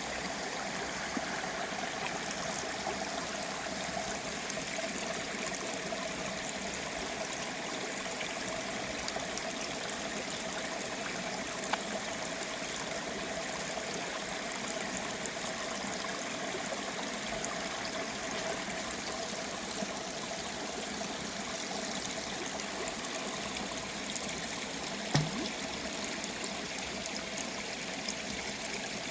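Valley stream flowing, a steady rush of running water. One brief knock about 25 seconds in.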